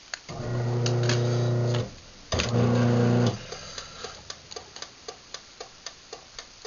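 A Craftsman chain-drive garage door opener hums in two short bursts, the second shorter than the first. It then ticks steadily about four times a second while its light flashes to signal a safety sensor fault.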